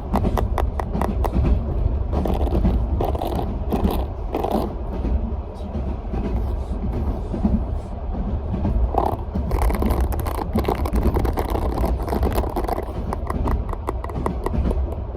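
Steady low rumble of a moving passenger train, with rapid tapping and scraping on small objects close to the microphone as ASMR triggers; the tapping comes thickest at the start and again in the second half.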